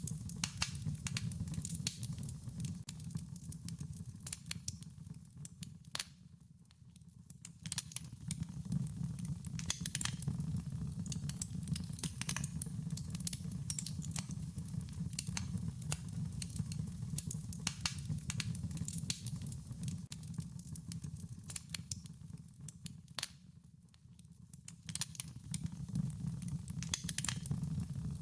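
Wood fire crackling, with many irregular sharp snaps and pops over a low steady rumble of burning. The sound dips and fades back twice.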